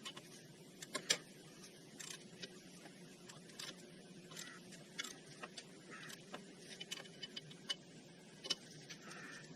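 Hand tools and metal parts being handled during ATV front-end assembly: irregular sharp clicks and clinks of metal on metal, the loudest about a second in, over a faint steady hum.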